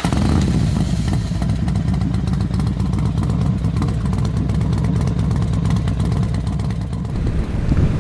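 Parallel-twin motorcycle engine of a Kawasaki 650 running steadily with an even low pulse.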